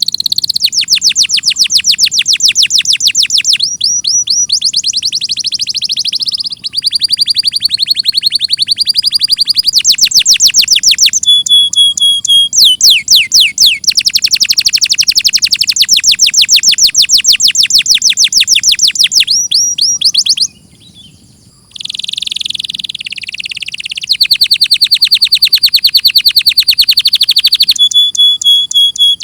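Domestic canary singing a long song made of rapid trills, one rolled phrase after another at changing pitches, with a break of about a second about two-thirds of the way through.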